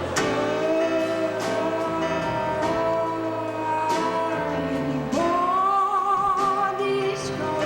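Live band music: a singer holds long notes over plucked guitar, moving up to a higher, wavering held note about five seconds in.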